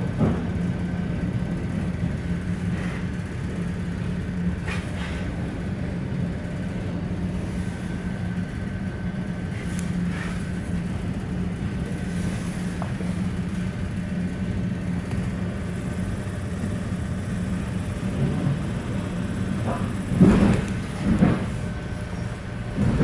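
Steady low rumble and hum inside a moving ED4M electric multiple unit, with a faint steady high tone over it. Two or three louder knocks come near the end.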